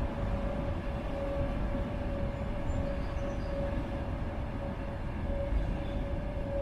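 Electric commuter trains running along the tracks below: a steady rumble with a steady humming tone over it.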